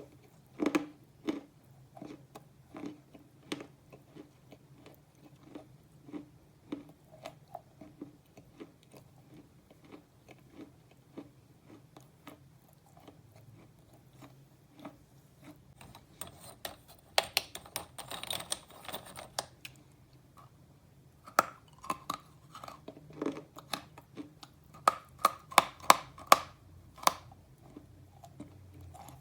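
A person chewing slate pencil close to the microphone: a steady run of short, crisp crunches. A denser crackling grind comes about two-thirds of the way through, and louder, closer-spaced crunches come near the end.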